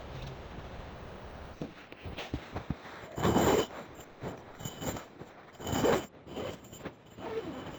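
A series of short rasping, scraping strokes, two of them longer and louder, about three and six seconds in.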